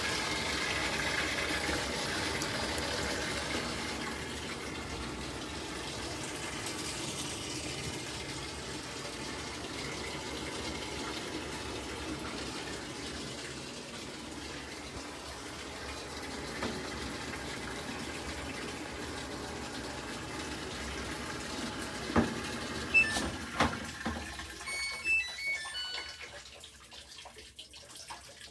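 Water running steadily from a Samsung top-load washer's ActiveWaterJet built-in faucet into the tub. About 22 seconds in come a few sharp knocks and short high beeps, and then the water goes quiet.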